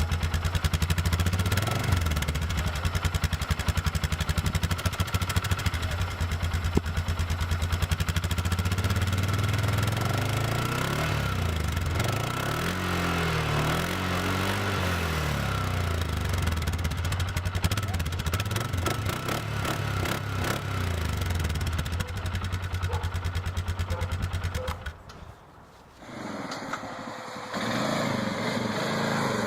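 Polaris Sportsman 500 ATV's single-cylinder four-stroke engine running steadily, revved up and down a few times around the middle. Near the end the sound drops away briefly, and then another engine recording begins.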